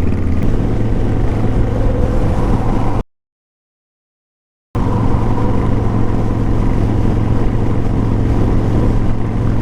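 Riding noise of a Kawasaki Vulcan 1500 Classic V-twin motorcycle under way, heard from the rider's helmet: a steady low engine hum under rushing wind. The sound cuts out to dead silence for nearly two seconds about three seconds in, then resumes unchanged.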